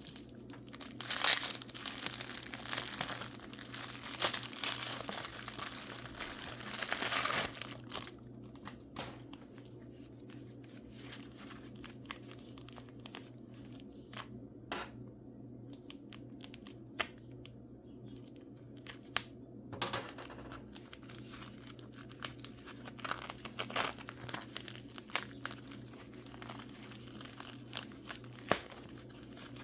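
Paper wrapping crinkling and tearing as mineral specimens are unwrapped. The crinkling is busiest for the first several seconds, thins to scattered light clicks and rustles, then picks up again about two-thirds of the way through, over a steady low hum.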